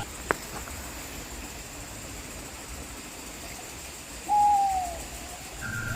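A bird gives one clear hooting call about four seconds in, falling slightly in pitch, with a sharp click shortly after the start.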